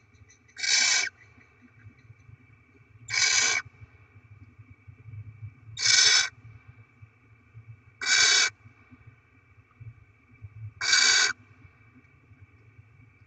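Barn owl giving five harsh, hissing calls, each about half a second long and spaced evenly about two and a half seconds apart.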